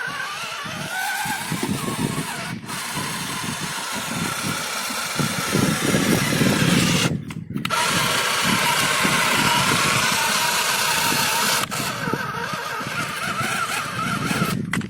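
John Deere tractor engine running steadily, with short abrupt breaks about two and a half, seven and eleven and a half seconds in.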